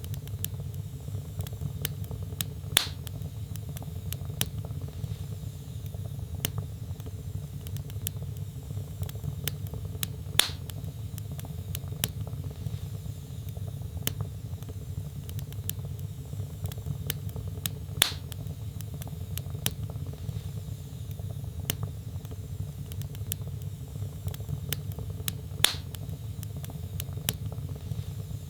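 Wood fire crackling in a fireplace: a steady low rumble of the flames with many small clicks and four louder pops, evenly spaced about seven and a half seconds apart.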